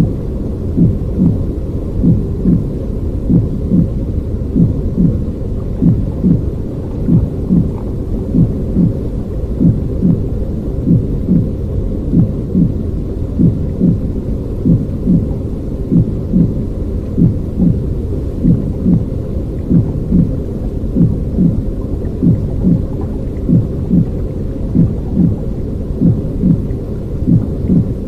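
Continuous low, muffled rumbling noise with a soft, even beat pulsing a little more than once a second. It plays as a steady looping soothing sound for settling a crying baby.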